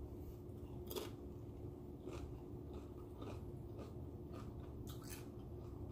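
Close-up crunching of a queso-dipped tortilla chip being bitten and chewed. A sharp crunch comes about a second in, followed by irregular smaller crunches as it is chewed.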